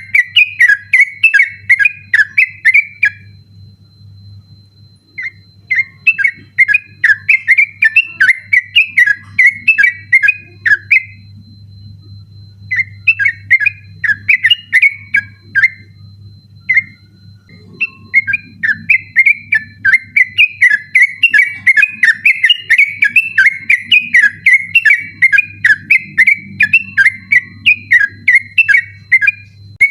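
Yellow-vented bulbul singing a fast, insistent chattering song: long runs of rapidly repeated whistled notes that slide up and down in pitch, broken by a few short pauses.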